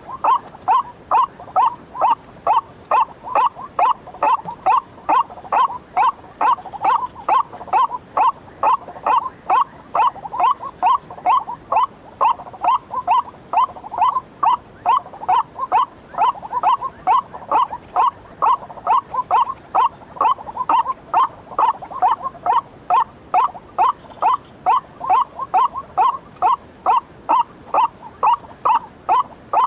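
White-breasted waterhen (ruak-ruak) calls: a long, unbroken run of short, harsh 'ruak' notes, about two to three a second, evenly spaced as in a lure recording.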